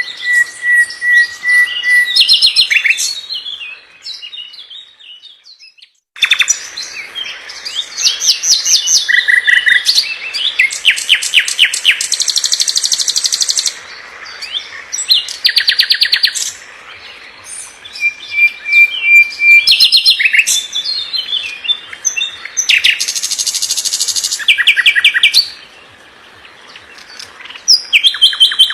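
Nightingale singing fast, varied phrases: held whistled notes, rapid runs of repeated notes and buzzy trills, with short pauses between phrases and a longer silent break about five seconds in.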